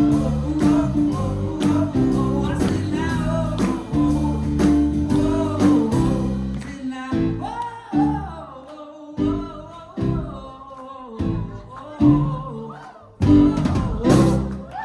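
Live pop band with guitar and vocals playing the end of a song. It plays steadily at first, then from about seven seconds in breaks into a series of short, separated band hits with gaps between them.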